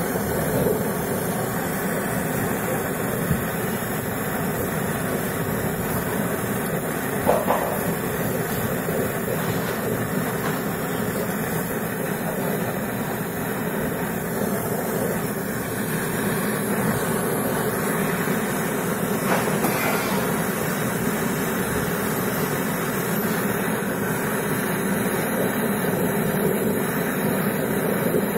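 Gas brazing torch flame hissing steadily while the copper lines of a refrigerator compressor are brazed, with a couple of light knocks.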